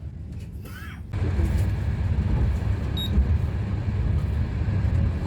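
Steady low rumble of a train in motion, starting abruptly about a second in.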